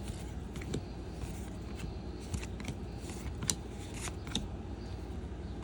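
Trading cards being handled and flipped through one by one, with a series of short sharp clicks and brief sliding sounds as cards are moved across the stack, over a steady low hum.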